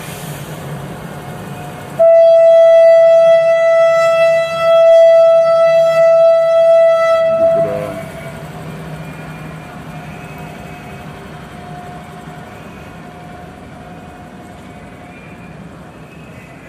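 WAP-7 electric locomotive's horn sounding one long, loud, steady blast of about six seconds, starting about two seconds in, with a brief dip near the middle. Before and after it there is a steady low hum from the train, slowly fading near the end.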